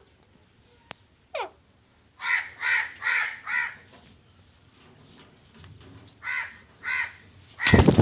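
Pet parrot calling: a falling whistle, then a quick run of four harsh squawks, two more squawks a few seconds later, and a loud harsh burst near the end.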